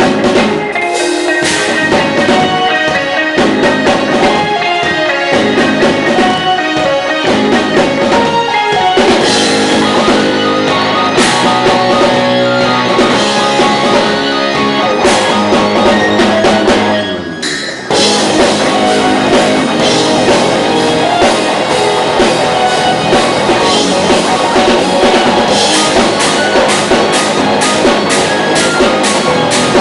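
Rock band playing loud live: drum kit, distorted electric guitars and bass. About two-thirds of the way through, a sliding drop in pitch leads into a very short break, and then the full band comes back in.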